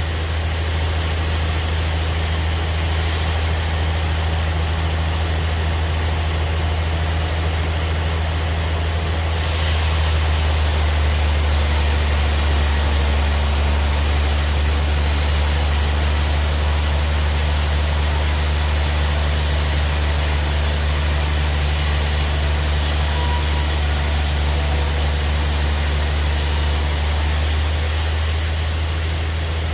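Band sawmill running with a steady low hum. About a third of the way in a louder hiss sets in as the blade cuts through a trembesi (rain tree) log, and it drops away shortly before the end.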